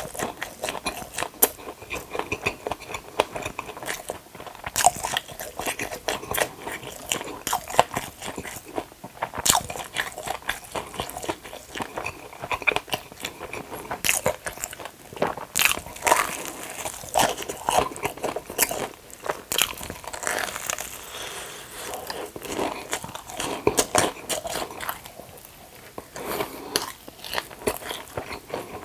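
Close-miked biting and chewing of a crispy batter-fried hot dog: repeated crisp crunches between softer, wet chewing sounds, uneven in rhythm.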